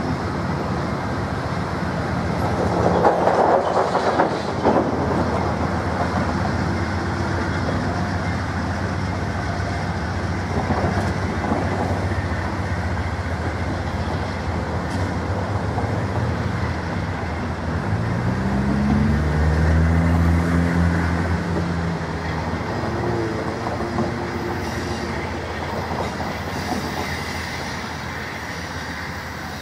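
Amtrak passenger coaches rolling away on the rails, with a steady rumble and the wheels clicking over rail joints, fading as the train draws off. About eighteen seconds in, a low hum rises and then falls in pitch.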